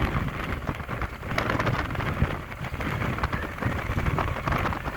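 Wind buffeting the microphone over the rumble of vehicle and road noise while moving along a road, with fitful crackling.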